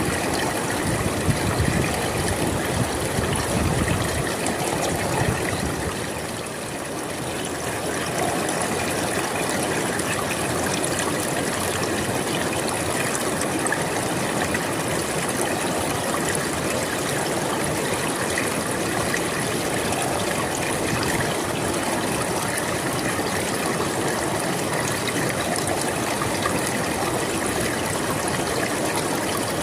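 River water flowing steadily over rocks, a continuous rushing and trickling, briefly a little softer about six seconds in.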